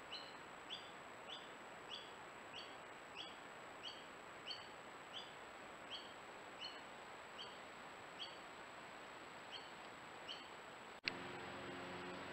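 A bird chirping repeatedly, short high two-part chirps about every two-thirds of a second, over a faint steady high tone. A sharp click near the end, followed by a low hum.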